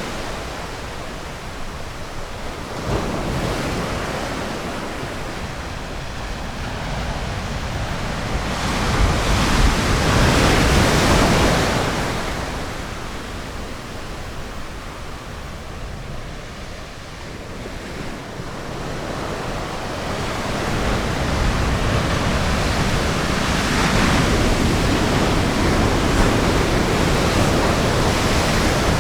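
Ocean surf washing onto a beach: a steady wash of breaking water that swells to a peak about ten seconds in, eases off, then builds again through the second half, with low wind rumble underneath.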